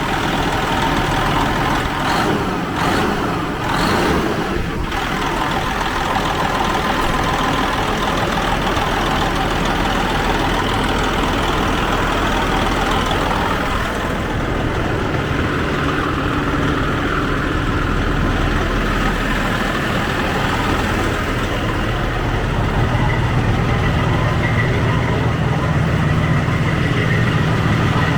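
The diesel engine of a 2004 Freightliner Columbia semi truck idling steadily, just started on starting fluid after sitting for years, and sounding good. A few knocks come in the first few seconds, and the engine's tone shifts about halfway through and again later on.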